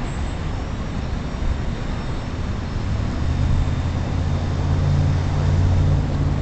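Wind buffeting the microphone, a rumbling noise that grows heavier about halfway in, with the faint steady whine of a small electric RC plane's brushless motor above it.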